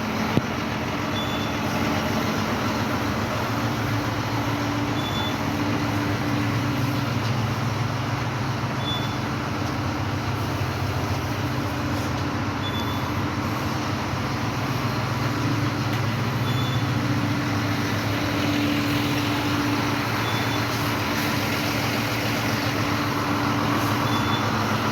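A vehicle engine running steadily with road noise, with a short high beep repeating about every four seconds.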